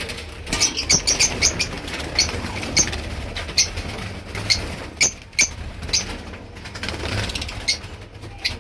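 Lovebirds chirping: short, sharp, high calls, several in quick succession about a second in, then scattered single calls every second or so.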